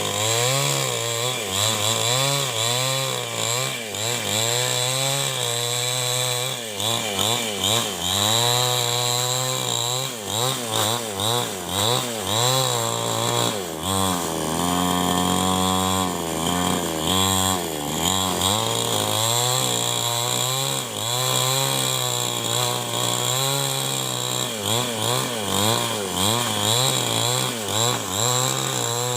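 New West 788 two-stroke chainsaw running at high revs while cutting wood to make beams. Its engine pitch rises and falls again and again as the chain loads and unloads in the cut, and it steadies at a lower pitch for a few seconds about halfway through.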